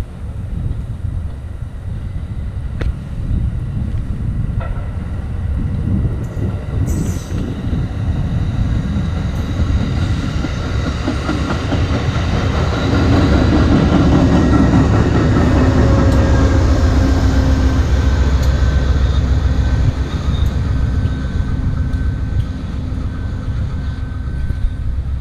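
Passenger train passing close by: rumble and wheel clatter of the coaches build up, are loudest about halfway through, then ease off, with wind on the microphone.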